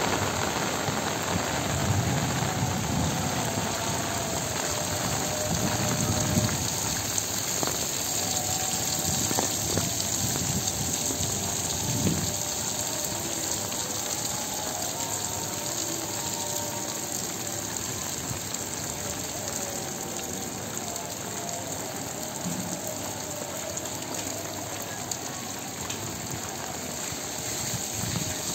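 Heavy rain falling steadily: a dense, even hiss of rain on a wet road and puddles.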